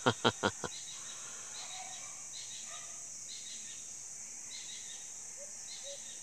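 Rural outdoor ambience: a steady high insect drone with bird chirps coming in short groups, and a run of quick, evenly spaced low chirps starting near the end.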